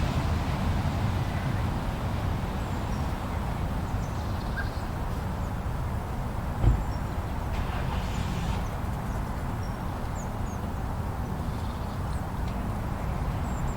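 Blizzard wind blowing steadily as a low, even rumble, with a single soft thump about halfway through and a few faint high chirps.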